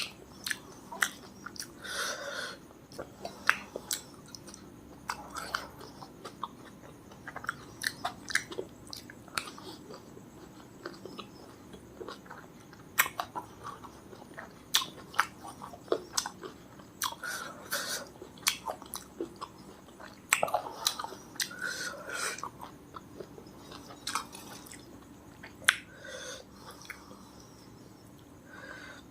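A person chewing food close to the microphone, with many irregular sharp mouth clicks and smacks.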